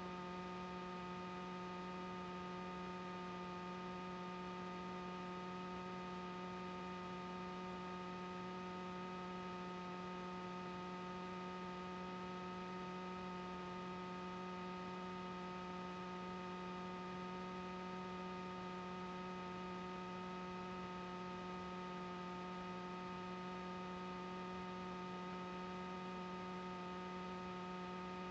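Steady electrical hum: one constant low tone with a ladder of higher overtones over faint hiss, unchanging throughout.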